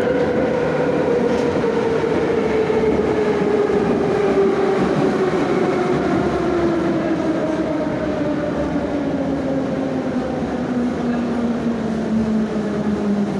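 Moscow Metro 'Nomernoy' (81-717/714) train slowing down, its traction-drive whine falling steadily in pitch over the rumble of wheels on the rails as it brakes toward a station.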